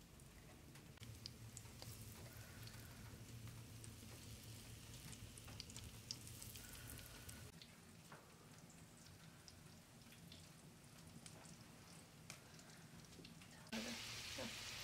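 Chicken nuggets frying in oil in a frying pan: a faint sizzle with scattered small crackles and taps as patties are laid in, over a low hum. Near the end the sizzle gets suddenly louder and closer.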